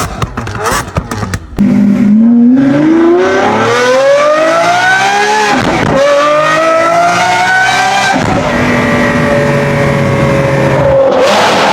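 Lamborghini Aventador SVJ's V12 accelerating hard after a second and a half of short choppy bursts. The engine note climbs steadily in pitch, drops at an upshift about six seconds in, climbs again, and shifts once more about eight seconds in before holding steady.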